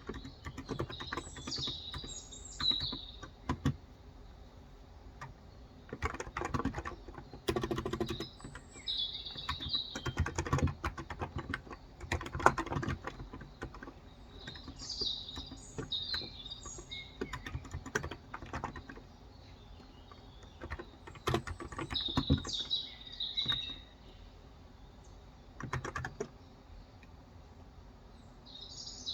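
Typing on a Cox Endeavor electro-capacitive (Topre-style) tenkeyless keyboard with 35 g switches, in irregular bursts of keystrokes with short pauses between. Birds chirp in the background now and then.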